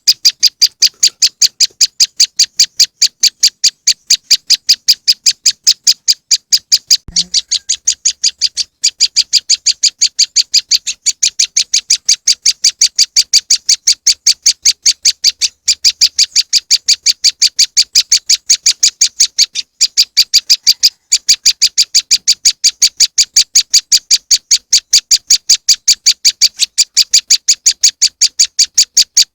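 Prenjak lumut bird-lure call: a rapid, unbroken series of short high chips, about four to five a second, with a few momentary breaks.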